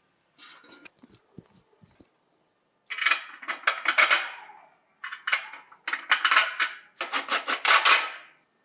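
Fast scraping or rubbing strokes from hand-worked tool work, in four runs of about a second each, starting about three seconds in.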